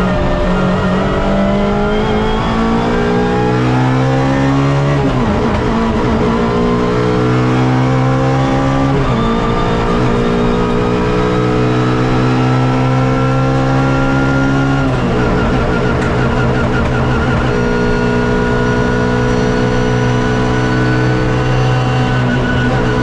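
Suzuki Swift race car's engine heard onboard at full throttle. The pitch climbs through the revs and drops at each upshift, three times, then holds nearly level and eases down near the end.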